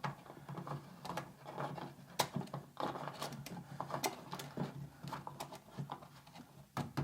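Plastic drain-pump filter of a Samsung front-load washing machine being fitted and screwed back into its housing: a scatter of small irregular plastic clicks, taps and scrapes.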